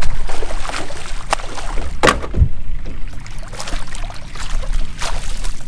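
Scattered knocks and splashes in and around a canoe as a just-hooked fish is brought in, over a steady low rumble.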